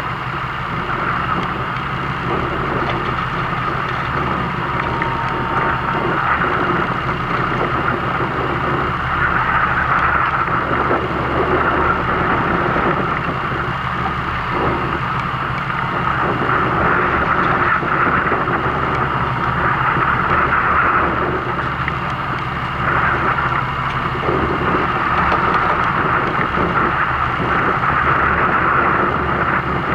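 A fishing boat's engine running steadily under a rushing noise of wind and water that swells and eases every few seconds.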